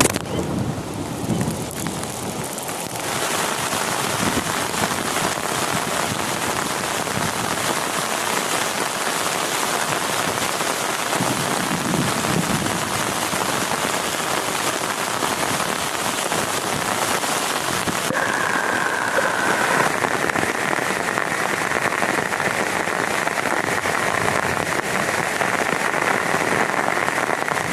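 Heavy rain falling steadily, a dense, even hiss of drops that grows fuller about three seconds in.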